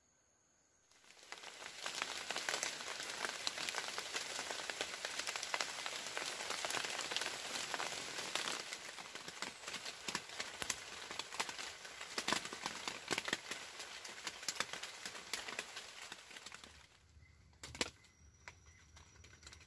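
Rain falling, heard from inside a leaf-thatched shelter as a dense crackle of many separate drops. It starts about a second in and stops abruptly near the end, followed by a single sharp click.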